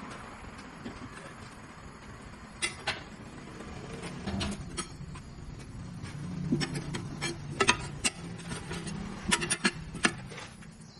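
Scattered sharp clicks and knocks of hand work with tools, over a low steady hum; the clicks come in small clusters, thickest near the end.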